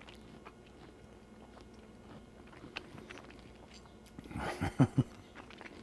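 A person quietly chewing a mouthful of pan-fried Brussels sprouts and mushrooms, with small wet mouth clicks. About four seconds in comes a brief louder burst of mouth and throat sounds with two sharp low thumps.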